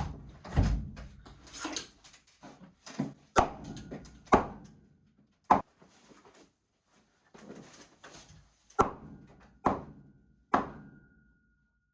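A series of separate sharp knocks and thuds on lumber as a heavy laminated beam is worked into place, about six strokes spaced unevenly, some followed by a faint metallic ring.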